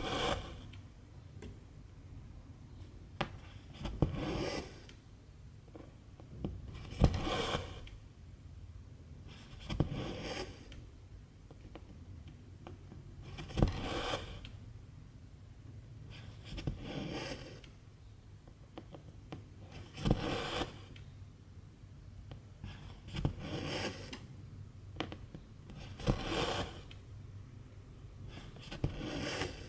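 Needle and silk thread being drawn through 11-count cross-stitch fabric, about every three seconds. Each stitch is a sharp tick of the needle piercing the cloth, then a short rasping swish as the thread is pulled through.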